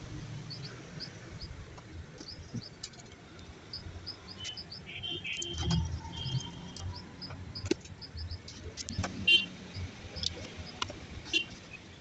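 Small birds chirping in short, repeated high notes in the background, with a few sharp clicks and rustles from handling and cutting wires near the end.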